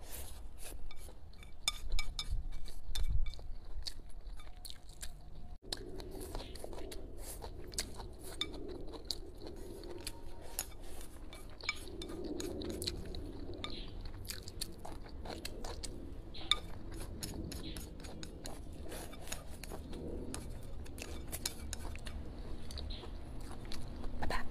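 Close-up chewing and eating sounds: a person crunching and chewing a mouthful of leafy greens and rice, with many small clicks and crackles throughout.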